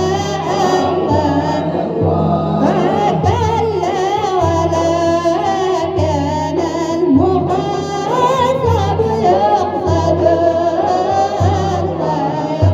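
A nasheed praising the Prophet Muhammad: voices singing a melismatic melody over a low pulsing beat that recurs about every second and a half.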